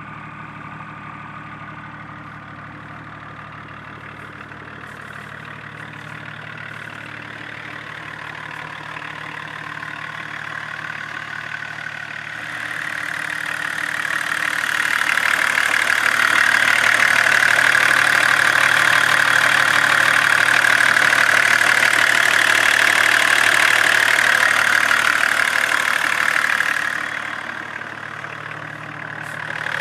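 BMW E34 525tds's 2.5-litre turbodiesel straight-six running through a straight-pipe exhaust, a steady low note. About twelve seconds in it grows much louder with a strong hiss and holds for about fourteen seconds, then drops back briefly and swells again at the very end.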